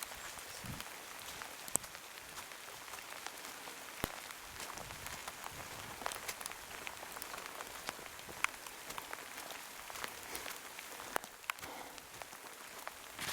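Heavy rain falling steadily, with many sharp single drops ticking close by.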